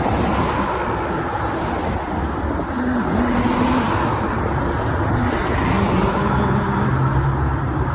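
Steady rumbling noise of riding a bicycle along a street, with wind on the bike-mounted phone's microphone and road traffic.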